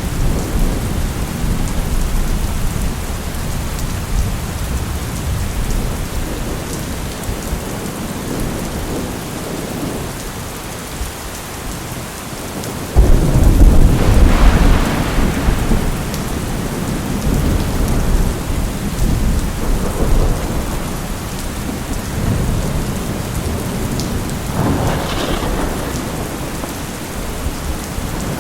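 Steady rain with thunder: a low rumble dies away over the first dozen seconds, then a sudden loud thunderclap about halfway through rumbles on for a few seconds, and a smaller roll of thunder comes near the end.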